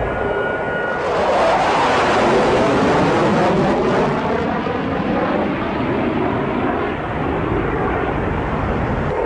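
Jet aircraft engines running with a dense, steady roar, plausibly a B-1 bomber's turbofans, with slow sweeping shifts in pitch through the noise. A thin steady whine stops about a second in as the noise grows brighter and louder.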